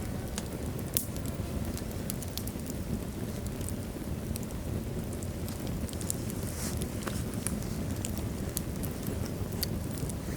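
Wood logs burning in a fireplace: a steady low rush of flame with frequent sharp crackles and pops scattered through, one louder pop about a second in.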